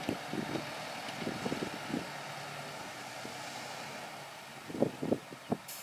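Diesel engine of earthmoving machinery running steadily, with light clatter early on and three sharp knocks near the end.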